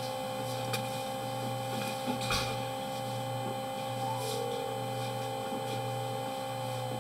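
Steady machine hum with two held tones and a low drone that swells and dips about every second and a half, with a couple of light clicks.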